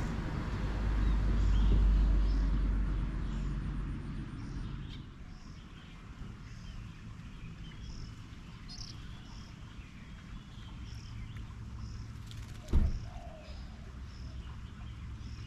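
A low distant engine rumble swells and fades over the first four seconds. After that, small birds give short, repeated chirps, with a single thump about thirteen seconds in.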